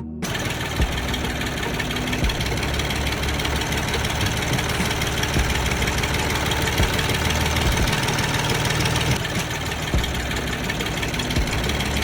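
A small motor running steadily, with a low rumble and irregular light knocks.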